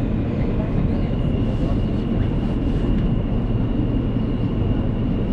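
New York subway train running: a steady, loud low rumble, with a thin high whine that comes in about a second in and holds.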